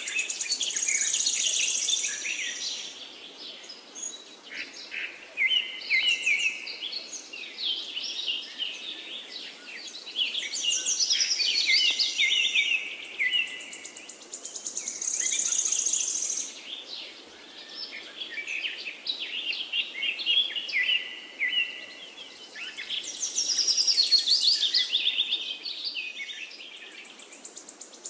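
Birds chirping and singing: many short, quick calls that come in waves every few seconds, over a faint steady hiss.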